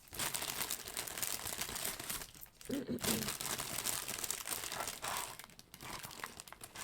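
Plastic packaging crinkling and rustling as items are handled and unwrapped, in uneven bursts with a brief pause a little after two seconds.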